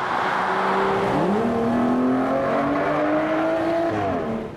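Aston Martin Vanquish Volante's V12 engine accelerating. After about a second of rushing road noise, the engine note climbs steeply, keeps rising slowly under load for a few seconds, and drops near the end.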